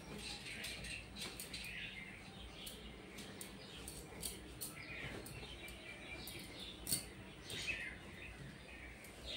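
Small birds chirping in short calls, over scattered light clicks and rustles of clothes being handled on a clothes rack. The sharpest click comes about seven seconds in.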